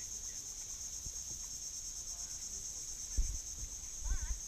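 Steady, high-pitched insect chorus with a fine, fast pulse, as from crickets in mangrove vegetation. Two low bumps stand out, about three seconds in and again near the end, along with a brief wavering whistle-like call.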